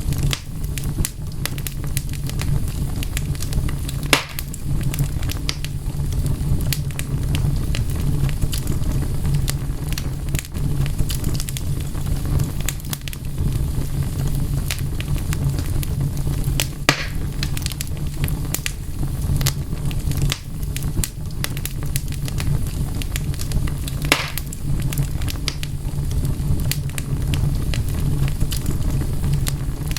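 Wood fire crackling, with many small pops throughout and a few louder snaps, over a steady low rumble.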